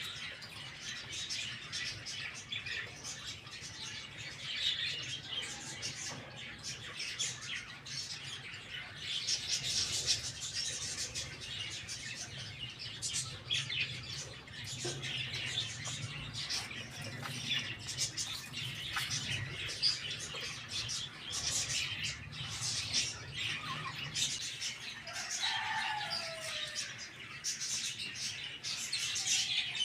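Many small birds chirping and chattering continuously in quick, high-pitched calls, with one lower, falling call about 25 seconds in.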